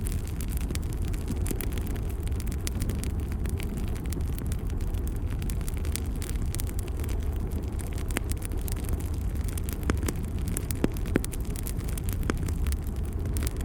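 Fire burning in a fireplace: a steady low rumble with frequent small crackles, and a few sharper pops in the second half.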